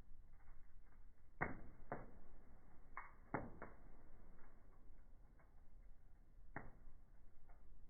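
Wood fire crackling in a fireplace, with irregular sharp pops over a faint hiss; the louder pops come in a cluster between about one and a half and four seconds in, with another near the end.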